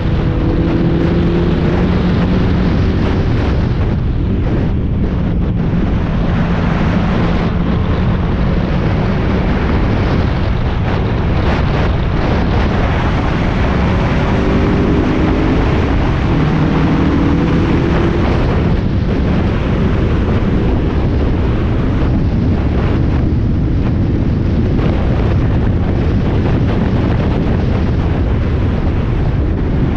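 Spec Miata's four-cylinder engine under hard driving on track, its note climbing and dropping as it revs and shifts. It is heard on board under loud wind buffeting and road noise.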